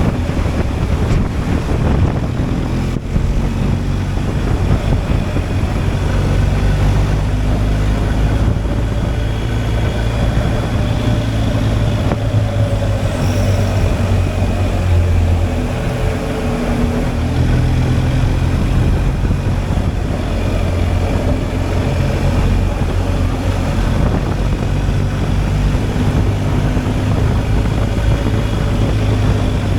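BMW R 1250 GSA's boxer twin engine running steadily while the bike is ridden, over a continuous wash of wind and road noise.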